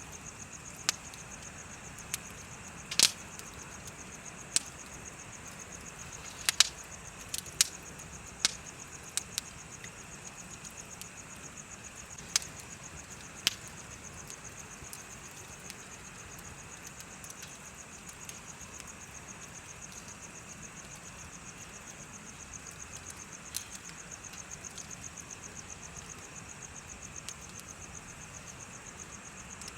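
Bonfire crackling, with sharp pops scattered irregularly, a cluster in the first half and only a few later, over insects chirping steadily throughout.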